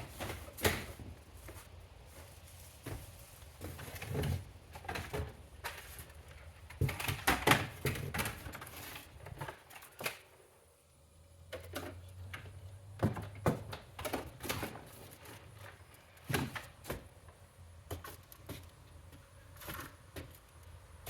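Cardboard boxes and vacuum parts being handled and moved: irregular knocks, clunks, scrapes and rustles, with a brief lull about halfway through.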